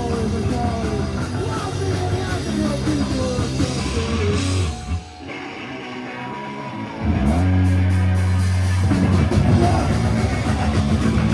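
Live rock band playing loud, with drums, guitar, bass and singing. About halfway through the band drops away briefly to a quieter stretch, then comes back in at full volume.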